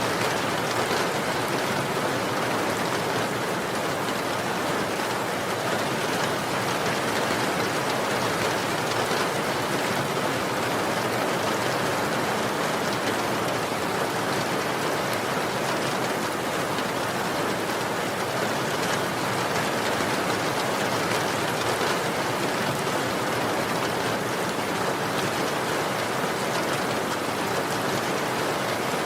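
Steady rain falling, an even hiss of many drops at an unchanging level.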